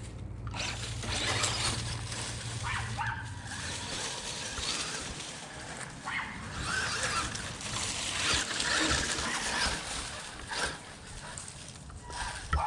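A dog whining and making vocal noises while it chases a running electric RC stadium truck, with the truck's driving noise mixed in.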